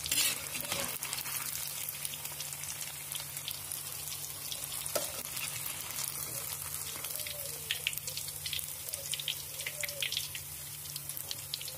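Tofu cubes deep-frying in hot oil in a wok: a steady sizzle with many small crackling pops. A metal skimmer knocks against the wok near the start.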